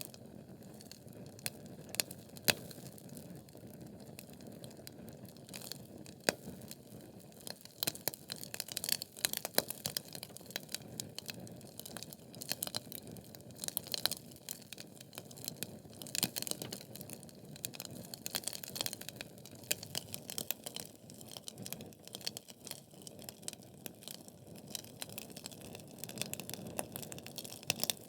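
Wood fire of burning logs in a fireplace crackling: irregular sharp pops and snaps over a steady soft hiss. The snapping comes thickest through the middle stretch.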